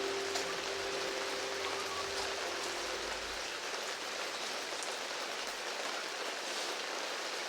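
Steady rain falling, an even hiss of drops. The last held piano note fades away over the first few seconds, leaving only the rain.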